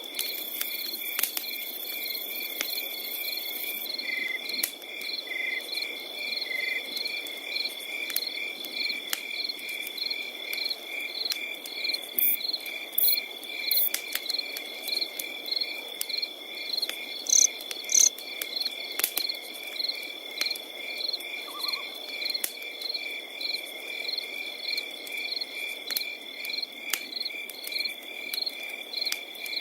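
Crickets chirping without pause: one continuous high trill together with rows of pulsed chirps at about two a second. Under them, a fire crackles with scattered sharp pops over a low steady hiss.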